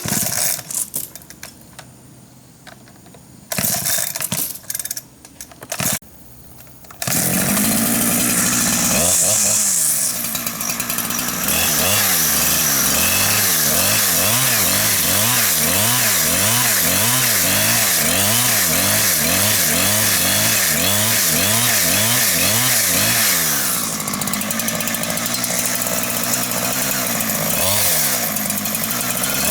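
Chainsaw starting up about seven seconds in after a few short loud noises, revving, then running steadily with its pitch rising and falling as it cuts wood.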